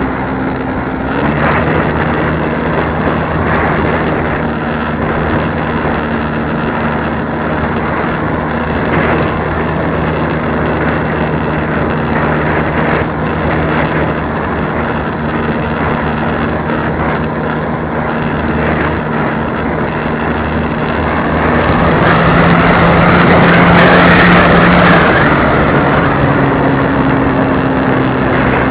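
Radio-controlled model airplane's motor and propeller running steadily in flight, heard close up under a heavy rush of wind. The pitch shifts about a second in and again near the end. The rush swells louder for a few seconds shortly before the end.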